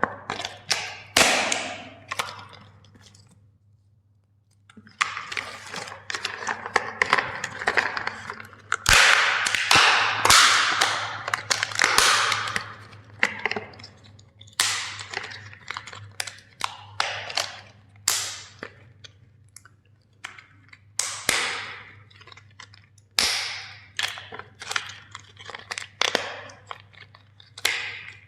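Plastic toys cracking and snapping as they are crushed: a long run of sharp cracks and crunching breaks, denser in the middle, with a short pause near the start.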